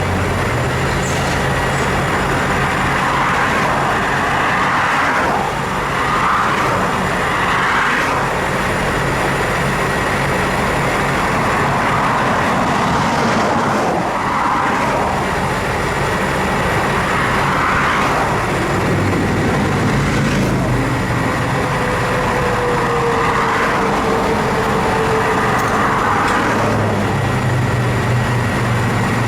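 Road traffic passing one vehicle after another, each swelling and fading over a few seconds, over the steady low hum of an idling engine.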